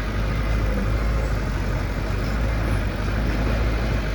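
Diesel engine of heavy road-construction machinery running steadily with a deep, even rumble.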